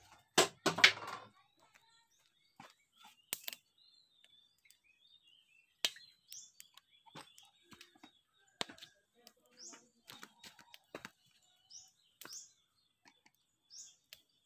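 Small bird giving short, high, rising chirps, one every couple of seconds, over scattered clicks and knocks. A louder clatter of knocks comes about half a second in.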